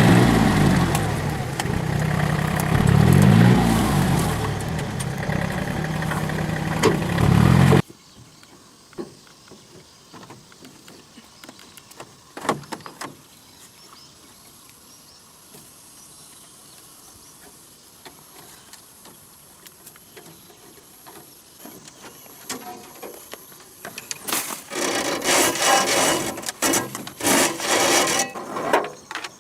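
A small engine running, its pitch rising and falling with changes in speed; it cuts off abruptly about eight seconds in. Later come scattered clicks and, near the end, bursts of rustling and crackling.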